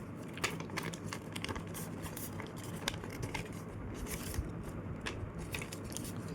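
Sheet of paper being creased and folded by hand: a string of short crinkles, scrapes and clicks as fingers run along the fold.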